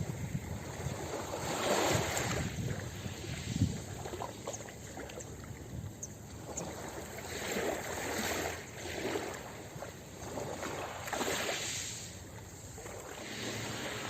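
Ocean waves washing onto a beach, swelling and ebbing in several washes a few seconds apart.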